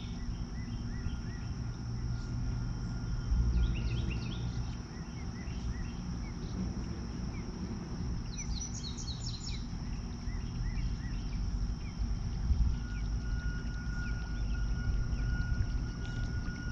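Outdoor ambience with small birds chirping repeatedly, a quick run of chirps about halfway through, over a constant low rumble and a steady high-pitched whine.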